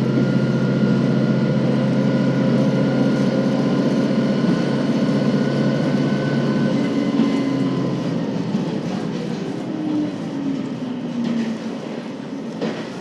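KiHa 40 series diesel railcar on the move: its diesel engine runs steadily under power, then throttles back a little over halfway through. What remains is the quieter rumble of the coasting car, with a sharp knock from the wheels or rails near the end.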